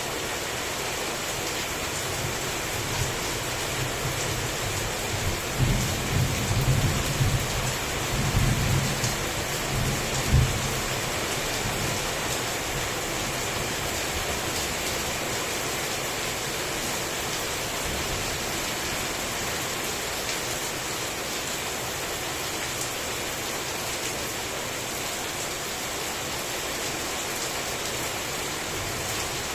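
Heavy rain falling steadily. A roll of thunder rumbles from about five seconds in for several seconds, peaking in a sharper clap near ten seconds in, then the rain carries on alone.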